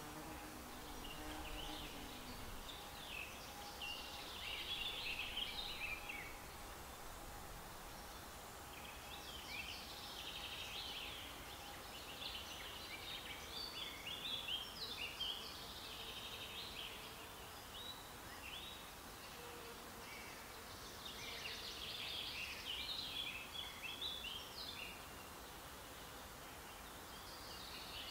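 Songbirds singing in phrases of quick high notes a few seconds long, with pauses between, over a steady outdoor background hiss.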